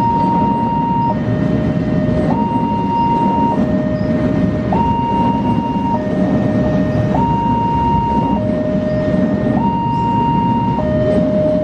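Railway level-crossing warning alarm sounding a steady two-tone high-low pattern, each tone lasting a little over a second, over the loud low rumble of a passing train.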